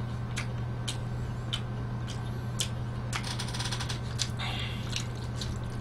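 Close-miked chewing of a crunchy pickle: scattered crisp clicks about twice a second. A little past halfway comes a short, rapid crackle as a fork stirs in a foil tray of spaghetti. A steady low hum runs underneath.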